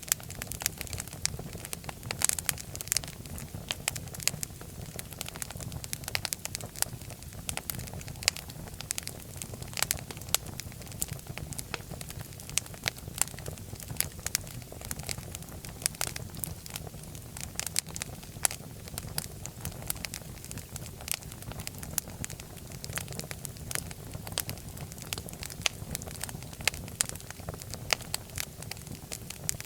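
Wood fire crackling steadily in a fireplace: irregular sharp pops and snaps over a low, even rumble of flame.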